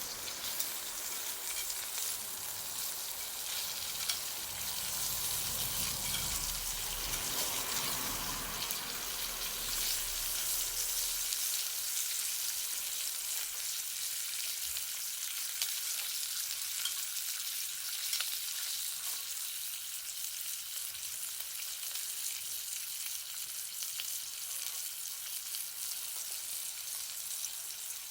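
Campfire burning: a steady hiss with many small crackles and pops from the burning wood. A low rumble underneath fades out about ten seconds in.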